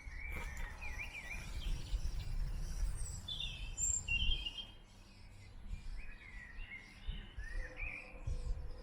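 Small birds chirping in short bursts of quick up-and-down calls, with pauses between them. A steady low rumble runs underneath and is louder than the birds.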